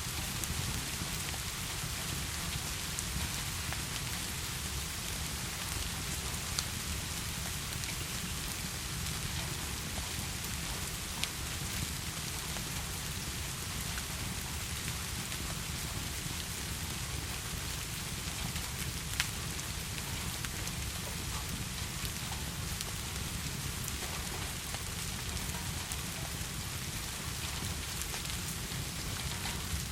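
Heavy rain falling steadily, an even hiss, with a few sharp ticks now and then.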